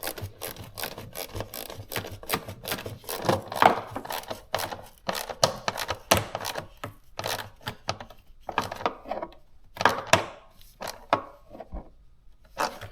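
Irregular clicking, knocking and scraping of hand work on a plastic air intake duct as it is fitted and its clamp tightened down snug.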